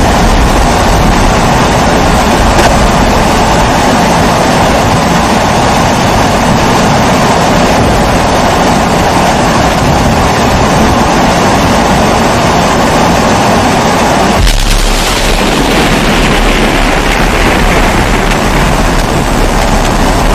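Kerosene pressure stove (primus-type babour) burner running with a loud, steady rushing hum. About fourteen seconds in, the sound shifts to a deeper rumble with more hiss.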